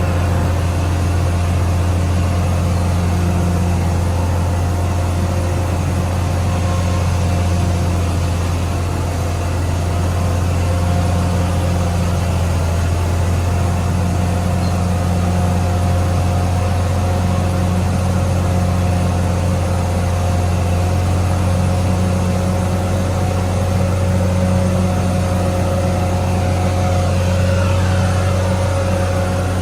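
Caterpillar D6R XL bulldozer's diesel engine running steadily, a deep drone with a steady whine above it.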